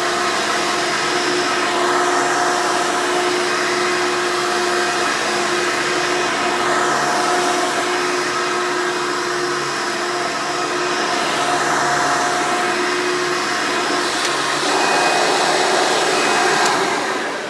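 Rebuilt Hoover Elite vacuum cleaner running with a steady, noisy motor whine and airflow rush; near the end it is switched off and the motor winds down.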